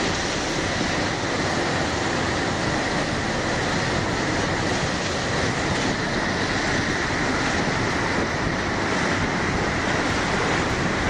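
Floodwater rushing through a street as a steady, unbroken rush of noise.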